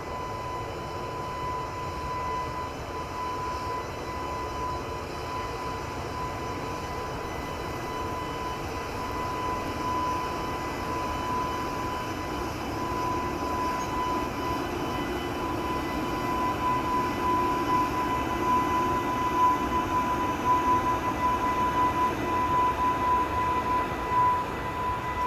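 EH500 electric locomotive hauling tank wagons pulls away: a steady high whine over a rumble that grows louder about halfway through, with strong wind buffeting the microphone.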